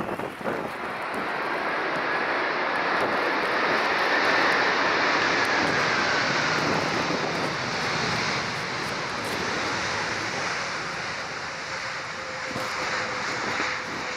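Jet engines of a Delta Airbus A330 coming in to land in a strong crosswind: a steady rush of jet noise with a faint whine that sinks slightly in pitch midway.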